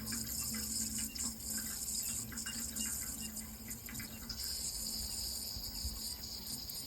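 Running water, a steady hiss with a low steady hum beneath it.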